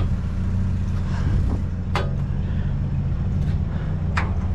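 A vehicle engine idling with a steady low rumble. Two sharp clicks, about two and four seconds in, and some faint rustling come from scrap being handled.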